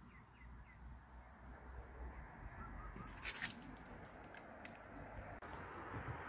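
A short series of faint bird calls in the first second, with a couple of sharp clicks a little after three seconds in over a low rumble.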